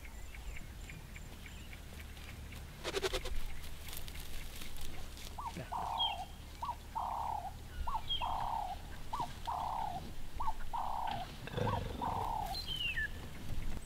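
A bird calling a rhythmic series of paired notes, a short one then a longer one, repeated about seven times over several seconds, with a few thin high chirps from another bird. A short rattle of clicks comes about three seconds in.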